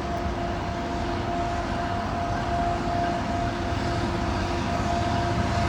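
Approaching diesel freight locomotive: a steady low rumble with a steady whine over it, slowly growing louder.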